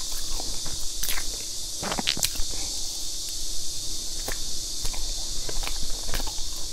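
Close-miked chewing of a crumb-coated layered cake, with soft mouth clicks and smacks at irregular intervals over a steady hiss.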